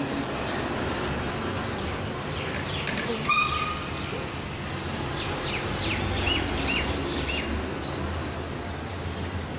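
Birds chirping: a run of short, falling chirps, most of them in the middle of the stretch, over a steady background rumble and hiss.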